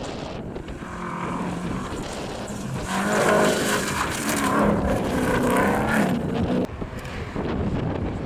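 A rally competitor's engine revving hard as it passes on the gravel stage, growing loud about three seconds in and changing pitch before fading after about six seconds. Wind buffets the microphone throughout.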